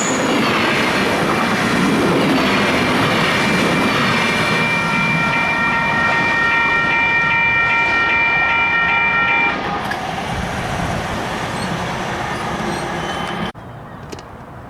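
Caltrain train passing close by with its horn held for about seven seconds over the rumble and clatter of the train. Near the end the sound cuts off suddenly to a quieter rumble.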